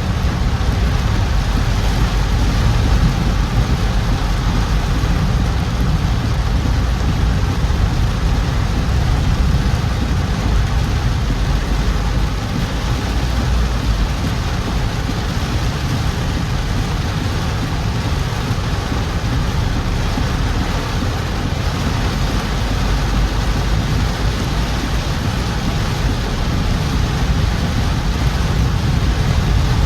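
A car driving through heavy rain: a steady rush of rain and wet-road tyre noise over a deep, even hum, with no sudden events.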